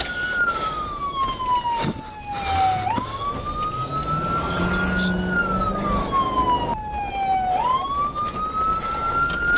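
Emergency vehicle siren wailing: a single tone that slides slowly down in pitch, then sweeps quickly back up, twice over, above a steady background noise.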